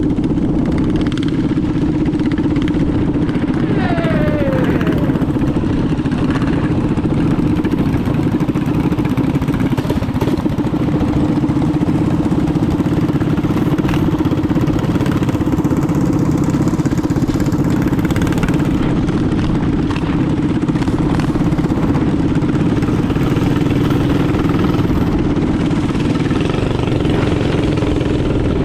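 Minibike engine running steadily at an even pitch while riding.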